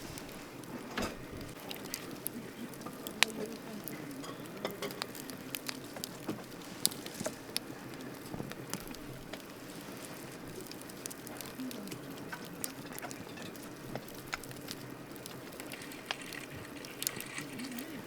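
Wood campfire crackling: irregular sharp pops and snaps over a steady hiss of burning, the loudest pops about three and seven seconds in.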